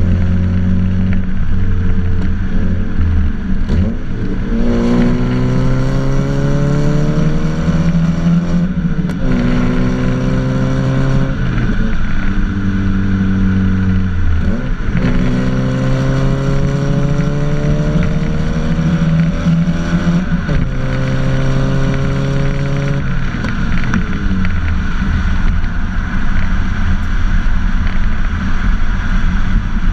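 2007 Mazda MX-5 Mk3's 1.8-litre four-cylinder engine through an aftermarket big-bore back box and decat pipe, accelerating hard twice: in each run the note climbs in pitch, drops at an upshift and climbs again, with steadier running between and after.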